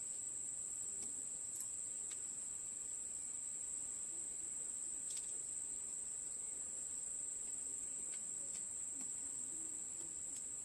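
Steady high-pitched trill of crickets, with a few faint clicks.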